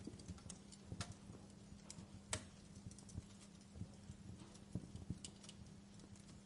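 Wood fire in a fireplace crackling softly: irregular small pops and snaps, one sharper snap about two and a half seconds in, over a faint steady low hum.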